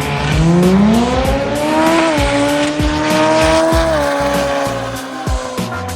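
Mitsubishi 4G63 four-cylinder race car accelerating hard: the engine note climbs steeply for about two seconds, holds high until about four seconds in, then drops and fades away. Background music with a steady beat runs underneath.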